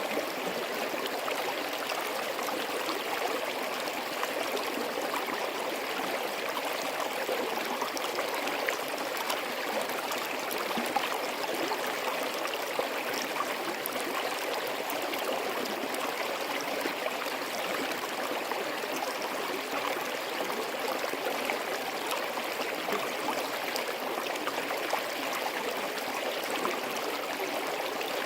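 Forest stream flowing steadily, a continuous babble of running water with small splashes and trickles throughout.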